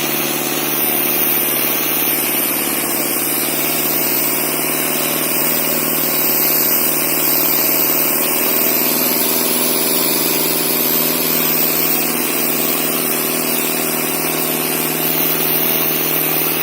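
Tractor diesel engine running steadily at an even speed, with no change in pitch.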